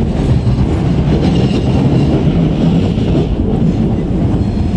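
Inside the passenger saloon of a Class 455 electric multiple unit on the move: a steady, loud running rumble from the wheels on the track and from the carriage.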